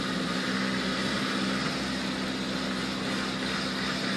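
Small Suzuki 4x4's engine running at a steady, unchanging pitch as it drives slowly through mud.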